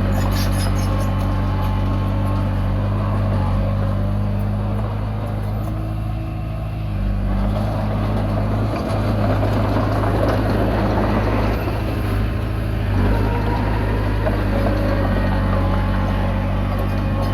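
Komatsu D20P bulldozer's diesel engine running steadily while working, with a slight dip in the engine note about six seconds in and a stretch of louder rattling from about eight to thirteen seconds in.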